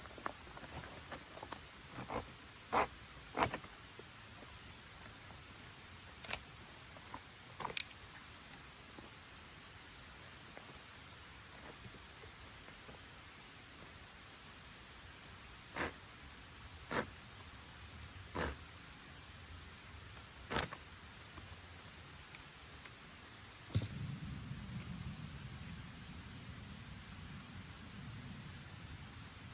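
A steady, high-pitched insect chorus of autumn crickets, with scattered sharp clicks and knocks. A low rumble sets in near the end.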